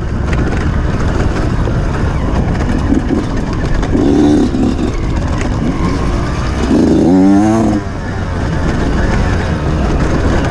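Off-road motorcycle engine working hard under way, its pitch rising and falling with the throttle, the sound rough with wind and jolting.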